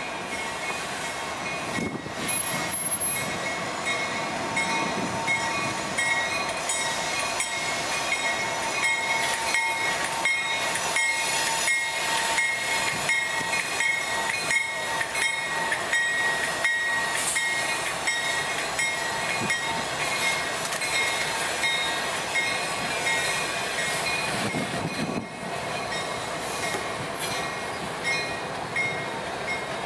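Norfolk Southern train rolling past close by, its wheels clattering over the rails in a rapid string of clicks, with a thin, high squeal that comes and goes.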